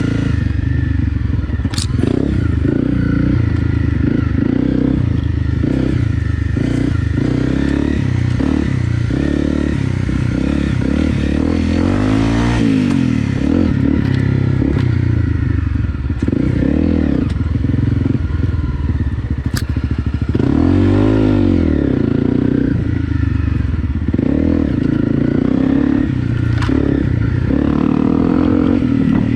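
Honda CRF250 Rally's single-cylinder four-stroke engine running in first gear over bumpy ground, its revs rising and falling. Occasional sharp knocks and rattles come from the bike over the bumps.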